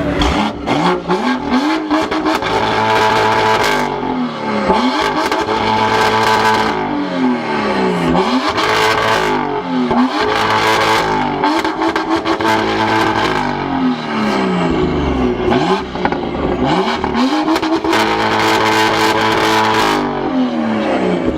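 BMW M2's turbocharged straight-six revving through its exhaust, the engine note climbing and dropping again over and over, every couple of seconds.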